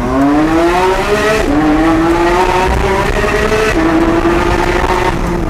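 Porsche 992 GT3's 4.0-litre naturally aspirated flat-six, with an Akrapovic exhaust, accelerating hard, its pitch climbing high. Two quick PDK upshifts drop the pitch, about a second and a half in and again near four seconds, and the engine eases off near the end.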